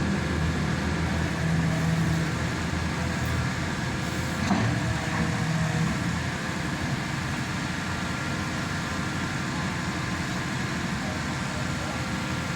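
Hydraulic static pile driver's engine and hydraulic power pack running steadily, with a low engine tone that eases after about six seconds. A brief knock about four and a half seconds in.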